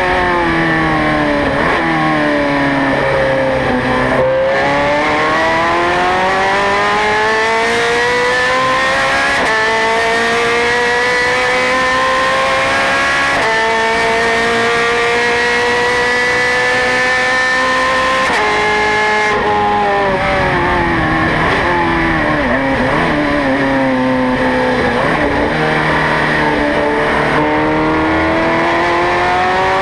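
Ferrari 430 Scuderia's 4.3-litre flat-plane V8 at racing speed. The engine note falls, climbs and jumps abruptly in pitch at gear changes several times, as the car brakes and accelerates around the track.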